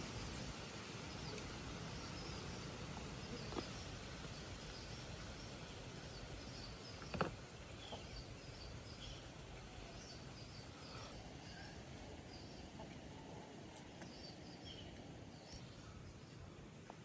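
Faint outdoor background noise with small birds chirping now and then, and two short knocks, about three and a half and seven seconds in.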